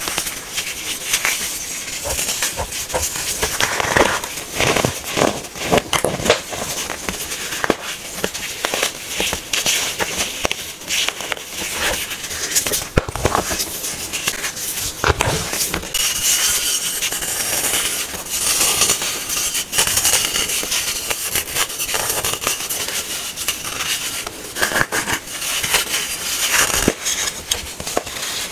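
Hard baking soda being crushed: a continuous, dense crunching and crackling.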